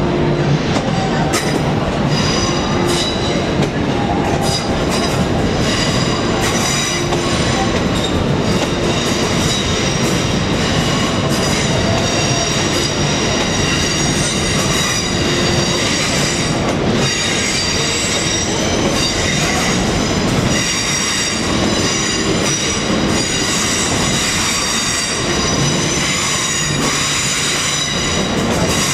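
Electric multiple unit in London Northwestern Railway livery running slowly into the platform. Its wheels squeal in several high tones on the curved track and click over the points and rail joints.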